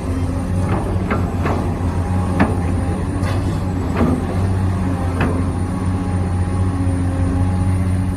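Radio-controlled construction model's motor running with a steady hum, broken by several short sharp clicks and knocks in the first five seconds.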